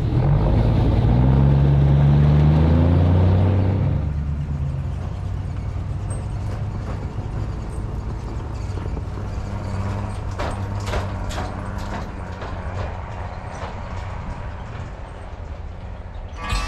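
Sisu heavy truck's engine revving up under load, its pitch rising for the first few seconds, then running steadily as it rope-tows a stranded truck and trailer through snow. A few light clicks or rattles come about ten seconds in.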